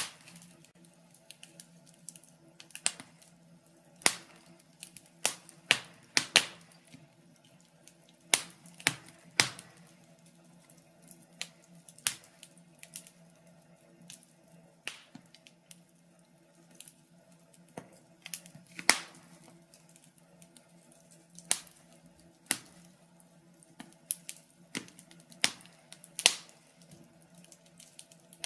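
Wood fire in a fireplace crackling, with irregular sharp pops and snaps of uneven loudness, one to several a second, over a faint steady hum.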